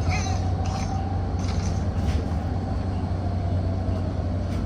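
MBTA city bus running, heard from inside the cabin: a steady low engine and road rumble with a faint drivetrain whine that rises slightly and then eases off.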